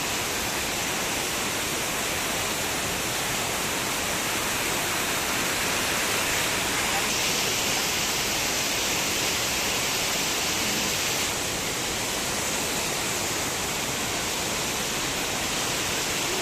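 Steady rushing noise with no pauses, a little louder in the middle.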